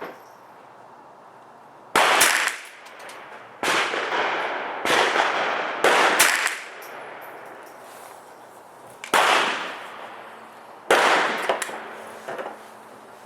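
Sig 522 .22 LR semi-automatic rifle with the 16-inch barrel firing standard-velocity .22 rounds one at a time: about six or seven sharp shots at uneven gaps of one to three seconds, each with an echoing tail.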